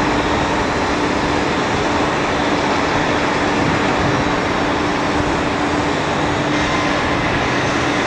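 Airbus A330-300 airliner's twin jet engines running loud and steady on takeoff, a constant low hum under the noise, with a faint higher whine joining about six and a half seconds in.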